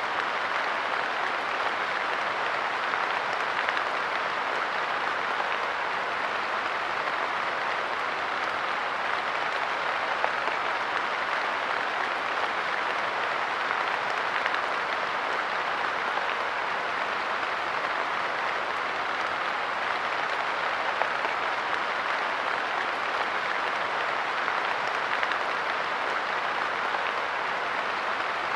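Light rain falling steadily on a park bench, an even patter with an occasional sharper drop.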